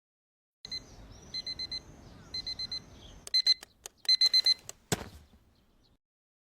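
Electronic alarm beeping in quick groups of four, a group about every second, then a sharp click as the beeping stops.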